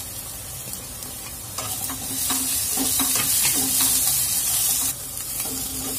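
Chopped onions, green chillies and ginger-garlic paste sizzling in oil in a non-stick kadhai, while a plastic slotted spatula stirs and scrapes them. The sizzle and stirring grow louder about a second and a half in and ease off about five seconds in.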